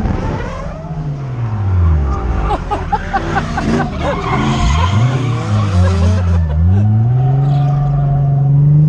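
A drift car's engine revving up and down through a slide with the tyres squealing, then holding a steady high rev over the last couple of seconds.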